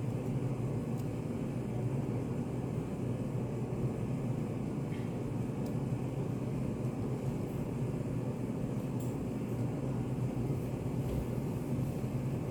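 Steady low rumbling white noise of a study-café ambience, unchanging throughout, with a few faint light ticks over it.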